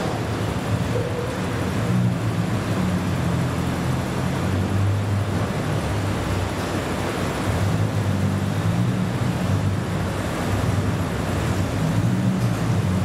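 Classic car engine running at low revs: a steady low rumble that wavers a little, over constant background noise.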